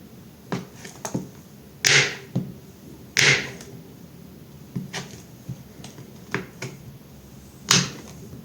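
A knife cutting through bars of soap, with three loud crisp crunches and lighter clicks and taps between them.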